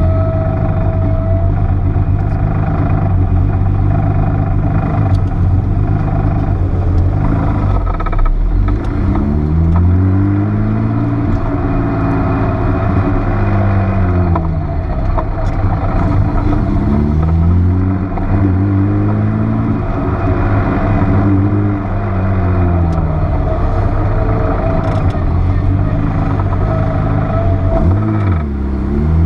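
Porsche 930 Turbo's air-cooled turbocharged flat-six engine heard from on board, its revs climbing and falling repeatedly as it is driven hard through the gears, with short drops in level at the lifts and shifts.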